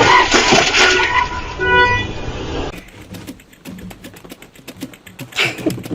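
Loud traffic noise with a car horn honking briefly about two seconds in. It is followed by a quieter stretch of irregular clicking and a short loud noise near the end.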